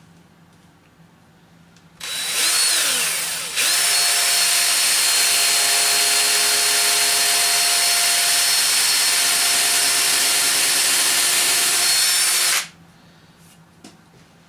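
Power drill boring a shallow pilot hole into a plastic face form. The motor whines up about two seconds in and wavers briefly, then runs at a steady high pitch for about nine seconds before stopping abruptly.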